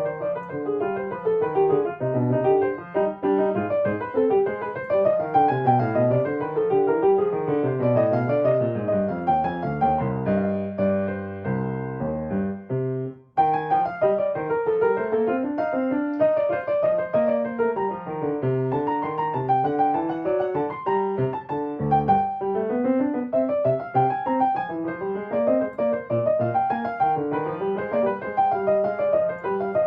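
Solo piano playing flowing arpeggio figures, with a held chord that breaks off about thirteen seconds in before the playing resumes.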